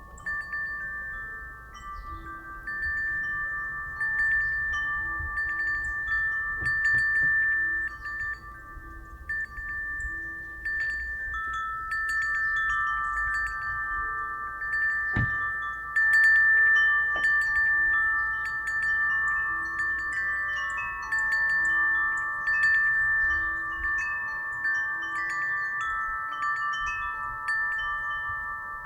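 Wind chimes ringing as the wind swings them, struck again and again so that several clear, long-ringing tones overlap, over a low wind rumble. One sharper strike comes about halfway.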